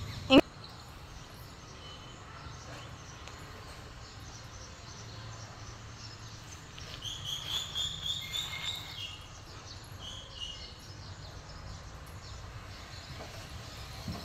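Faint outdoor background, with a bird chirping a quick run of high notes about seven to nine seconds in and a few more a little later. A brief sharp sound comes just after the start.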